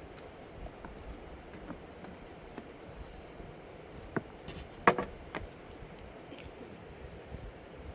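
A scatter of short, sharp clicks and knocks, like hard objects being handled, over a low steady background; the loudest is a quick cluster of knocks about five seconds in.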